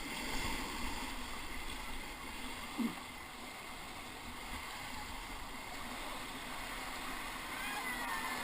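River whitewater rushing steadily around a raft, with a short pitched sound about three seconds in.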